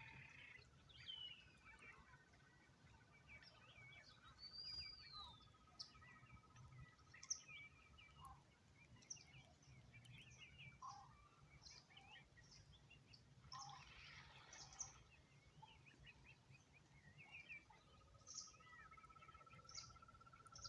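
Faint outdoor birdsong: many short chirps and calls from several birds, with a long, even trill lasting several seconds near the start and again near the end.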